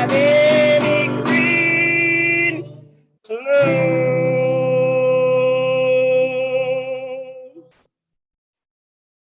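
Song ending with singing over guitar. A held note stops about 3 s in, then a final long note with vibrato fades out near 8 s, leaving silence.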